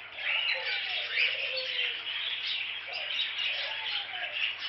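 A flock of pet budgerigars chattering and chirping without pause, a dense mix of overlapping warbles and short calls.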